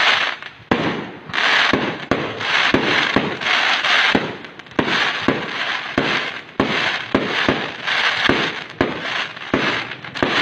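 Aerial fireworks shells bursting one after another, a sharp bang every half second to a second, each followed by a crackling hiss.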